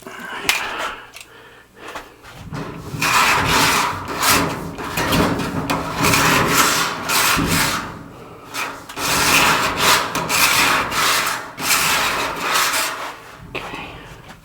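Hand scrubbing inside a sheet-metal return air duct: rough rubbing and scraping in several long passes, each a second or two long.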